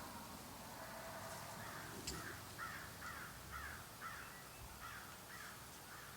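A bird's harsh, raspy call repeated about nine times at roughly two a second.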